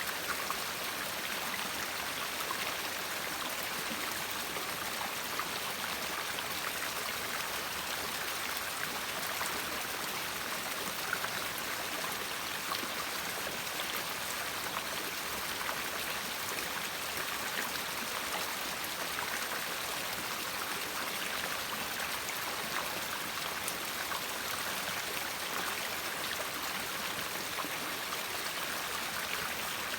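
River water flowing steadily, an even rushing with small splashes and trickles through it.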